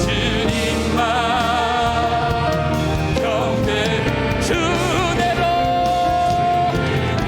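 A praise band with keyboards, bass, electric guitar and drums playing a worship song while singers hold long notes with vibrato.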